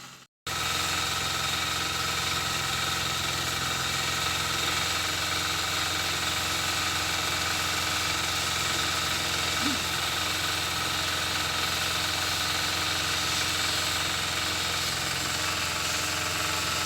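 An engine running steadily at idle, an even drone that does not change, broken only by a brief dropout just after the start.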